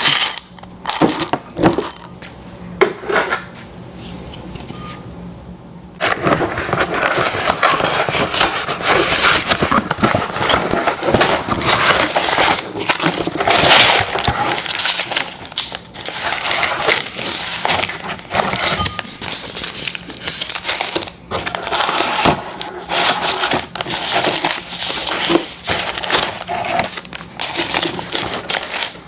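Close-miked mouth sounds of eating candy: a few scattered clicks, then about six seconds in, continuous loud, wet, crackly chewing and crunching.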